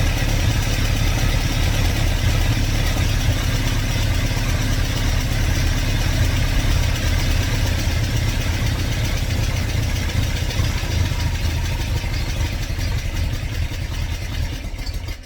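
2110cc air-cooled VW flat-four with dual Empi 44 IDF carburetors running at idle with its fuel pump shut off, burning the last fuel out of the carburetors. Near the end it runs unevenly and starts to falter as it runs out of fuel.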